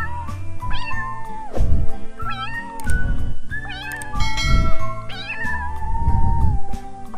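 A cat meowing four times, about every second and a half: long meows that rise and then hold their pitch, over background music with a steady low beat.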